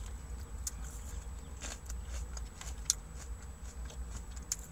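Chewing a mouthful of salad greens, with scattered small crunches and mouth clicks, over a low steady rumble inside a car.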